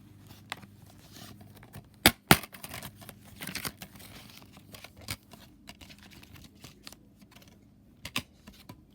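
Scattered sharp clicks and clatter of small hard objects being handled, loudest as two clicks in quick succession about two seconds in, with a brief rustle soon after and a few more clicks near the end.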